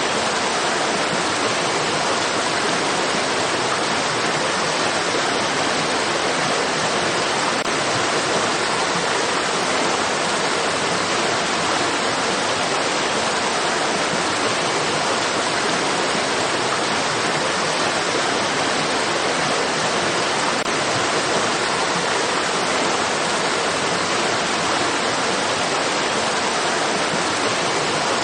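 Running water of a stream: a steady, even rush of flowing water with no separate splashes or changes.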